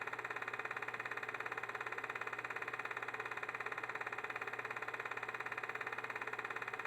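Film projector running: a steady whirr with a fast, even clatter of about sixteen to eighteen beats a second over a low hum.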